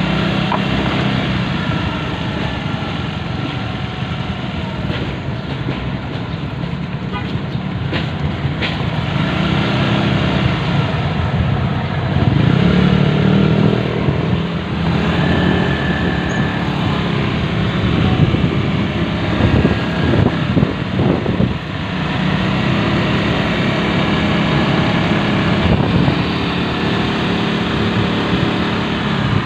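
Motorcycle engine running while riding through city traffic, rising and falling with the throttle.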